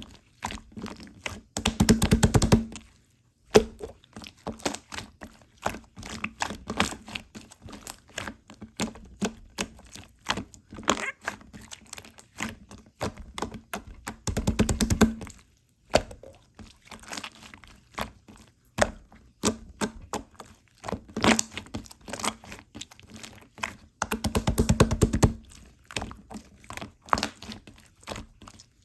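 Slime being squished and pressed by hand: an irregular run of small pops and clicks, with three longer bursts of rapid crackling about two, fifteen and twenty-five seconds in.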